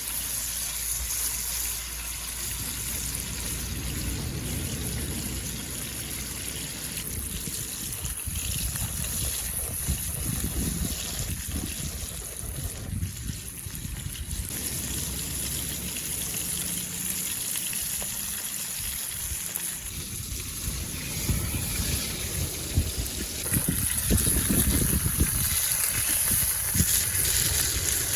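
Sea surf washing onto a beach with strong wind buffeting the microphone: a steady hiss with uneven low rumbling surges.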